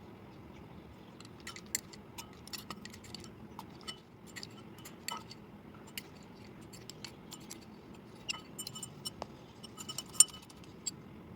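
Slate pencils being crunched: a string of sharp, irregular cracks and clicks, the loudest about ten seconds in.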